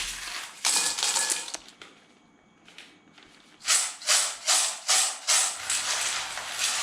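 Small hard clams (沙白) rattling and clattering together in a container as they are mixed with salt for pickling. There is a burst at the start, then after a lull a run of about five quick shakes, two or three a second.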